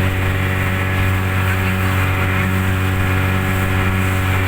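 Speedboat's outboard motor running at a steady, unchanging pitch, a constant low drone.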